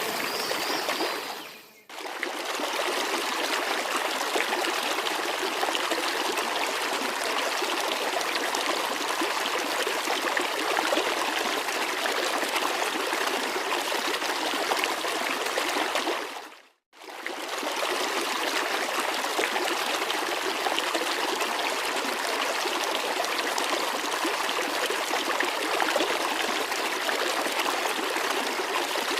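Steady rushing and splashing of flowing water from a waterfall and its stream. It drops out briefly twice, about two seconds in and a little past halfway, then comes back at the same level.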